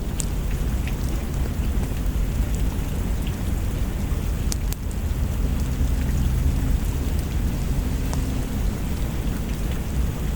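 Steady rain with a low rumble of distant thunder, slightly swelling about halfway through, and scattered sharp crackles of a wood fire.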